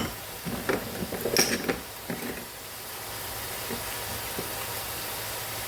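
Diced carrots, onion and celery sizzling in a soup pot with a steady hiss. A few small clicks and knocks of kitchen utensils or a seasoning container come in the first couple of seconds.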